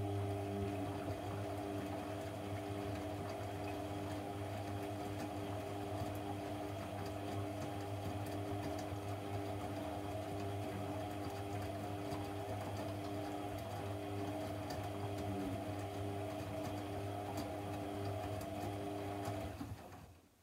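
Electric motor of a laundry appliance humming steadily, a constant low mains-type hum with a few higher steady tones, cutting off suddenly near the end.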